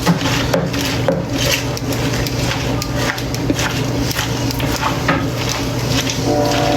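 Salad being tossed with tongs in a bowl: irregular rustling of leaves and short clicks and scrapes of the tongs against the bowl.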